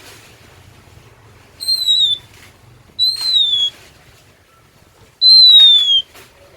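Oriental magpie-robin (kacer) singing: three loud, clear whistled notes, each sliding slightly down in pitch, about a second or more apart, the last the longest and loudest.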